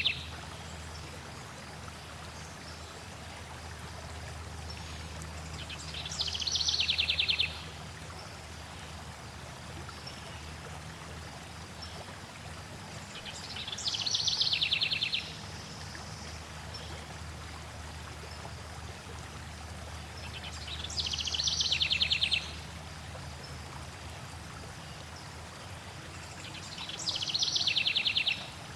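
A songbird singing four times, about every seven seconds: each song is a rapid trill about a second and a half long that drops in pitch toward its end. Under it runs the steady rush of flowing water.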